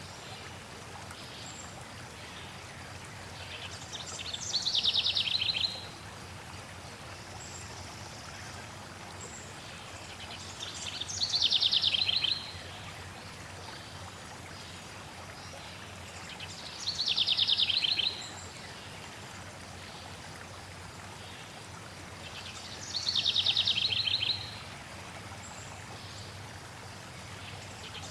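A songbird repeats the same rapid, downward-sliding trill about every six seconds, four times, each phrase lasting a second and a half. Under it runs a steady hiss of flowing water.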